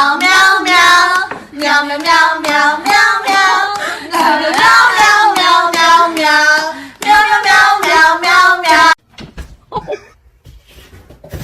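A high voice singing or wailing in long, wavering notes, which stops abruptly about nine seconds in; a few faint knocks follow.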